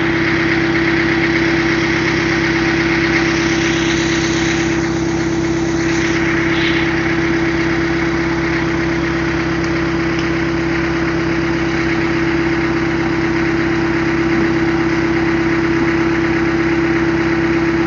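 Rice milling machine running steadily while it mills palay: a constant mechanical hum with a steady whine over it.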